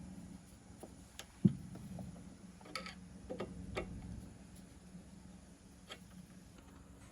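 Scattered small clicks and taps of a tool working on a mini bike carburetor as its main jet is unscrewed, with one sharper knock about a second and a half in.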